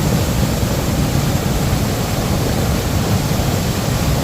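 Loud, steady rush of a small cascading waterfall on a flood-swollen creek, heavy in the low end. The water is running higher and faster than normal after heavy rain.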